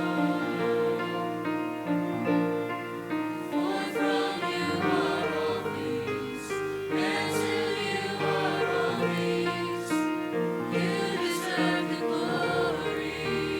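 Mixed choir singing a gospel hymn in sustained harmony with keyboard accompaniment.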